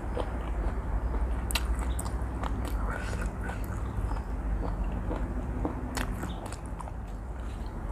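Close-up chewing of spicy seafood instant noodles, with scattered wet mouth clicks. The loudest clicks come about one and a half seconds in and near six seconds, over a low steady hum.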